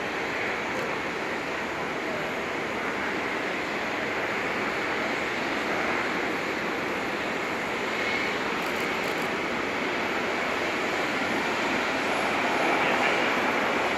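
Jet aircraft engines heard as a steady rushing roar, swelling a little near the end.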